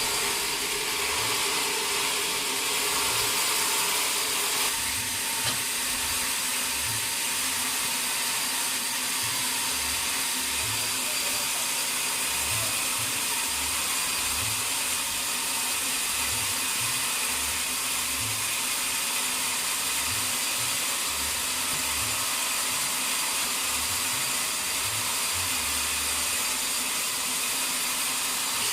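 Sawmill machinery running steadily, a continuous hiss strongest in the high range with a few steady tones. A lower hum drops out about five seconds in.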